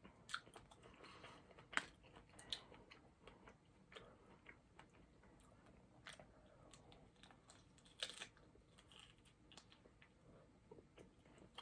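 Soft chewing and scattered wet mouth clicks of a person eating a chocolate-covered strawberry, with a few sharper clicks in the first few seconds and another about eight seconds in.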